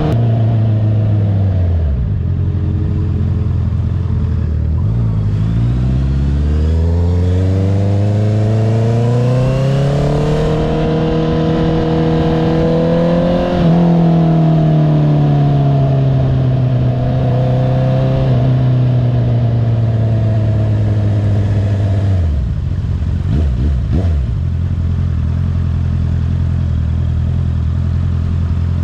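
Honda CBR650R inline-four with an Akrapovič exhaust, riding: the revs drop, then climb steadily for several seconds under acceleration, ease off slowly, fall away, give one short blip, and settle into a steady note.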